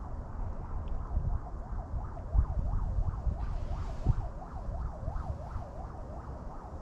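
Wind buffeting the microphone with a steady rumble, over a faint warbling tone that rises and falls about twice a second.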